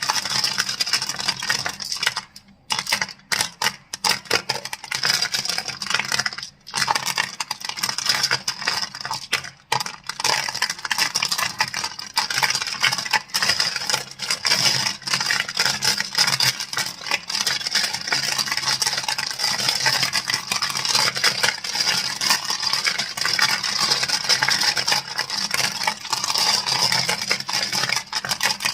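Crystals being clicked and tapped rapidly, a dense stream of sharp, bright clicks with a few short pauses in the first ten seconds.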